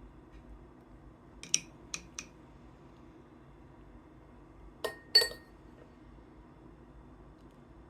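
Hard objects clinking together: three light clinks about a second and a half in, then two louder clinks around five seconds in, the last with a brief ring.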